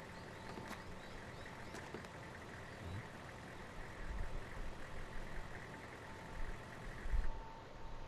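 Faint steady background hum with a few low thumps, a scene ambience from the anime's soundtrack.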